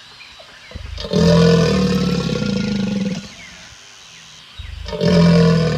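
Alligator growling: two long, deep growls, the first starting about a second in and lasting about two seconds, the second starting near the end.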